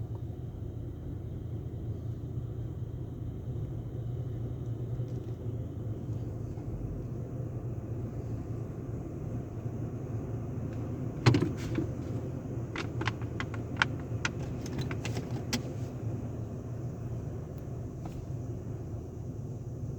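Tunnel car wash machinery running with a steady low rumble. About eleven seconds in there is a loud knock, followed by a quick run of sharp taps and clicks over a few seconds.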